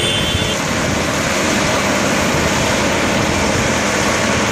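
CAT 745C articulated water truck running with a steady, loud rushing noise, its engine and water spray blended together. A short high tone sounds at the very start.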